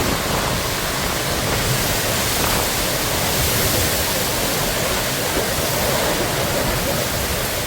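Steady rushing noise of a heavy rainstorm.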